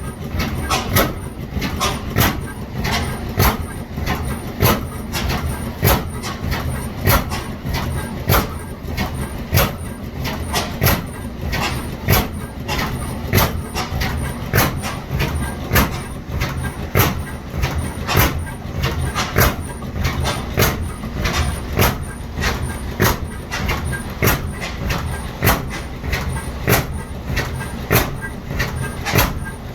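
Ajax Ball half-breed oilfield hit-and-miss engine running, with a steady, even rhythm of sharp beats, one to two a second, over a low rumble.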